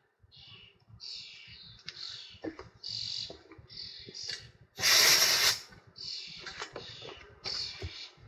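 Hands-on work on a Toyota MMT gear-shift actuator: a series of short hissing strokes mixed with small clicks of parts being handled, and one much louder hiss about five seconds in.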